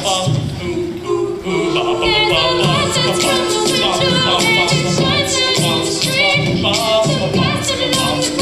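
Mixed choir singing a cappella in several parts, one part holding a long note under the moving voices. Sharp vocal-percussion ticks keep a steady beat throughout.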